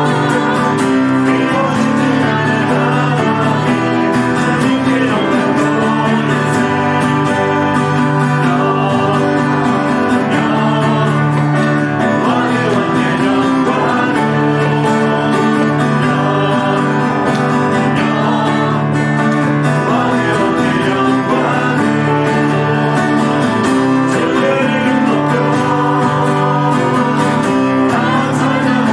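Church praise team performing a worship song: a guitar-led band with singing, at a steady volume with no break.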